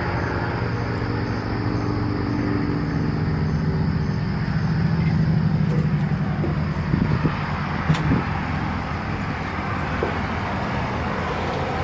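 Cummins diesel engine of a Grove TMS800E truck crane idling steadily, its hum a little stronger in the middle, with a few faint knocks about seven to eight seconds in.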